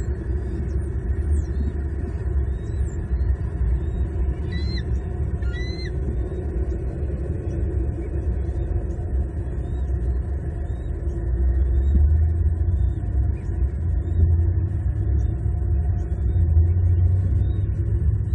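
Steady low rumble on the nest-cam microphone, with faint high bird chirps repeating over it and a couple of louder chirps about five seconds in.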